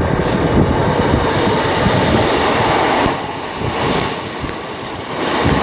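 Class 156 Sprinter diesel multiple unit running into the station, a steady rumble of engine and wheels that eases for a couple of seconds past the middle and then picks up again.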